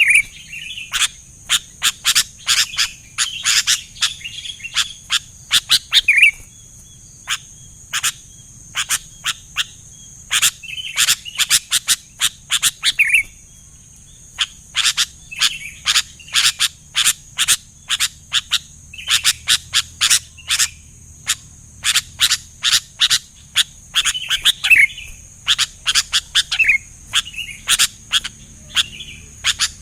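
Sooty-headed bulbuls calling: quick runs of sharp chirps, broken now and then by a short bubbly warbled phrase, over a steady high-pitched hiss.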